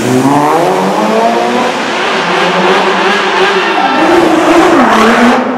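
Performance car engines accelerating hard inside a road tunnel, revving up with the pitch climbing and dropping back at a gear change near the end. The sound cuts off abruptly just before the end.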